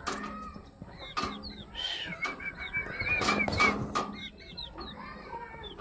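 Chickens clucking, with many short, high calls repeated throughout and a quick run of calls between about two and four seconds in.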